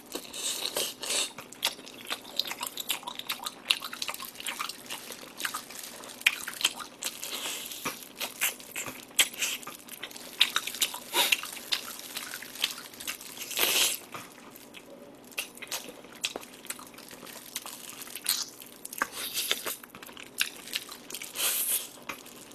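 Close-miked mouth sounds of a man biting and chewing seasoned pig's trotters off the bone: irregular clicks and smacks throughout, a few louder bites in between.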